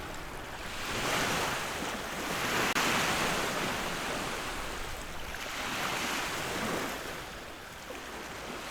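Ocean waves breaking and washing ashore, the surf swelling and fading in slow surges every two to three seconds.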